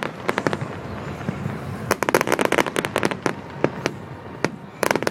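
Fireworks display: rapid volleys of sharp crackling bangs, with a dense burst about two seconds in and another starting near the end, and scattered single pops between.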